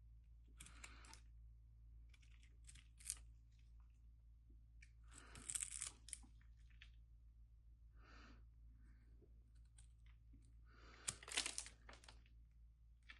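A knife carving into a bar of soap: about five separate crisp, crunchy scraping cuts, the longest and loudest about five seconds in and again near eleven seconds, over a faint steady low hum.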